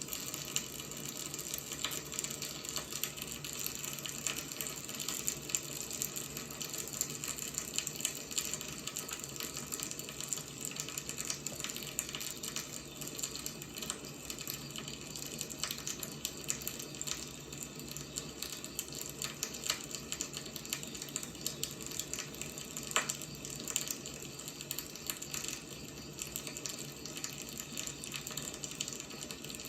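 Burning firewood crackling: a steady hiss dotted with many small crackles and pops, with one sharper pop about three quarters of the way through.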